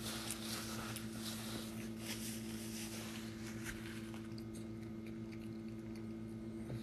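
Quiet chewing and mouth sounds close to the microphone, busier in the first few seconds, over a steady low hum.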